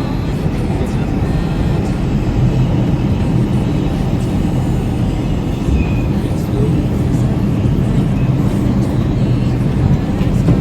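New York City subway 5 train running: a steady, loud low rumble with a low hum.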